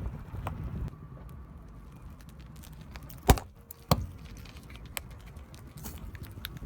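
Two sharp cracks about two-thirds of a second apart, a little past the middle, over a low rumble: a car tyre crushing hard objects as it rolls over them.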